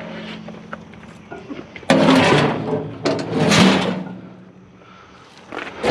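Metal parts of a gas grill scraping and clanking as the cast iron bottom is pulled apart from the top, with two loud rasping bouts, the first starting suddenly about two seconds in.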